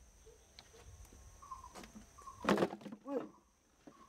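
Bird calls: a few soft short notes, then louder calls about two and a half and three seconds in. A short rustle or knock falls at the loudest moment.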